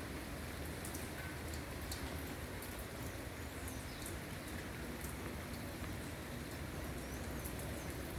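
Light rain falling steadily, with scattered drop ticks in the high range. A few faint high, curving chirps come through in the middle and near the end.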